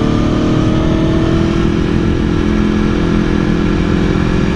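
Aprilia Tuono V4 1100's V4 engine running under gentle acceleration on the move, its pitch climbing slowly for the first second or so and then holding steady, over a rush of wind noise.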